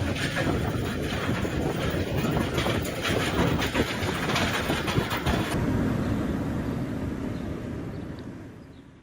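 Vehicle noise: a dense rumble with scattered clattering, fading out near the end.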